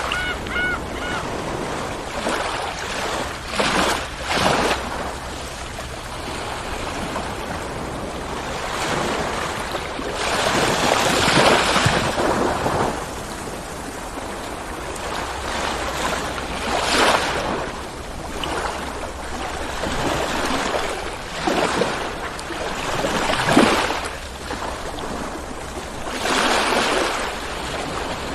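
Ocean surf: waves rolling in and breaking, a continuous wash that swells with each breaker every few seconds. Right at the start, a short high call repeats about four times over the surf.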